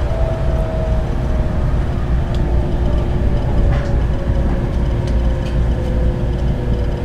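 Passenger train running, heard from inside the carriage: a loud low rumble with a steady hum and a whine that slowly falls in pitch.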